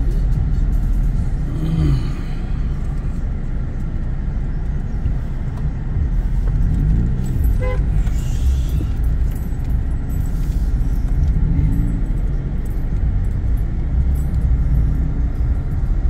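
Road traffic: car engines and tyres in a steady, heavy low rumble, with faint voices under it and a short beep about halfway through.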